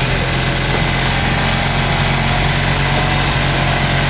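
Fiat 500 F's air-cooled two-cylinder engine idling steadily, on its first run since being fitted in the car.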